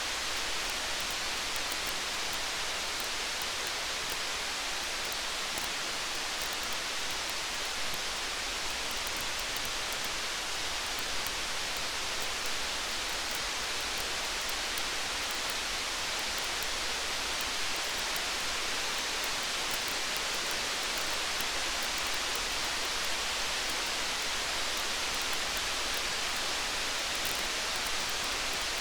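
Steady rain, with a scatter of faint crackles or ticks from a campfire throughout.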